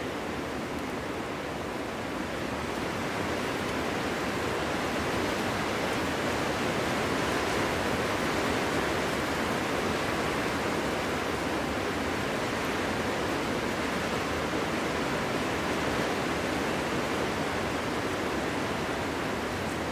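Winter wind blowing steadily through a forest: an even, dense rush that swells a little a few seconds in.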